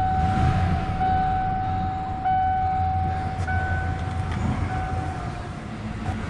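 Ford F-150 engine idling just after starting on a newly installed starter motor. Over it a steady high tone sounds in pulses about a second long, then stops shortly before the end.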